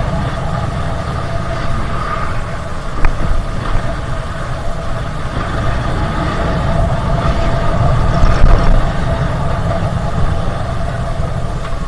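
Motorcycle engine running steadily while riding, with low wind rumble on the microphone.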